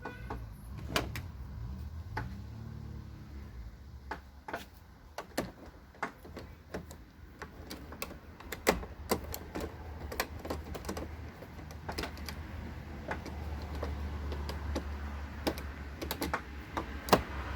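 Irregular sharp clicks and taps of small metal door-handle parts being handled and fitted together during reassembly of the handle mechanism.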